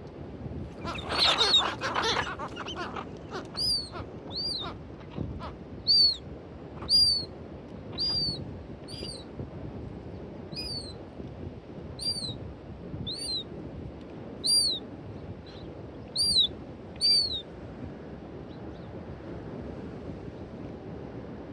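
Birds calling: a burst of overlapping calls about a second in, then short, high, arched calls repeated roughly once a second until a few seconds before the end, over steady wind and water noise.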